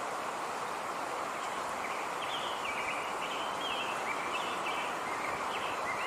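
Outdoor nature ambience: a steady rushing noise with faint, short high-pitched bird chirps coming in about two seconds in and repeating.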